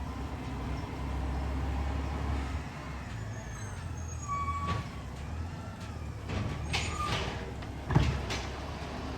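Garbage truck engine running with a low rumble, with short high-pitched squeals twice and a sharp metallic knock about eight seconds in.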